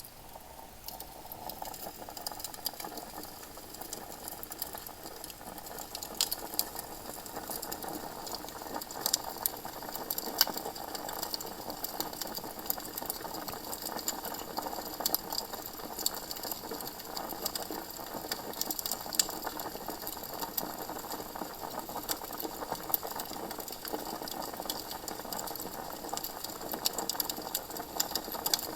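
Campfire crackling: a dense, irregular run of sharp snaps and pops over a steady hiss of burning wood.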